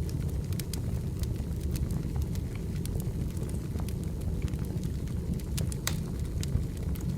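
Firewood burning, a steady low rumble of flames with frequent sharp crackles and pops scattered through it.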